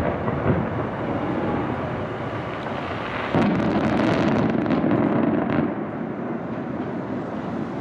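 Fireworks display: a dense, continuous crackle and rumble of bursting shells, getting louder about three seconds in.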